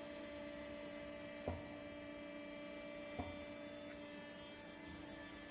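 Steady electrical hum, with two short knocks about a second and a half in and again about three seconds in.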